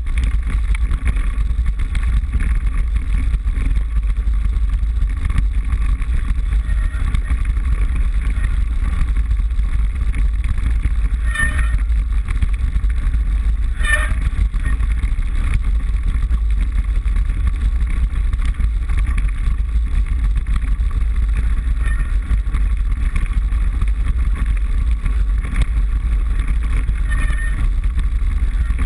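Steady wind rush and low rumble on a handlebar-mounted GoPro as a mountain bike is ridden, with two sharp knocks from the bike and camera about a third of the way and halfway through.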